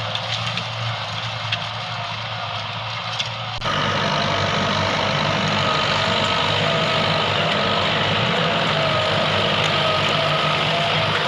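Tractor engine running steadily. About three and a half seconds in, the sound changes abruptly and gets louder, with a steady whine on top of the engine hum.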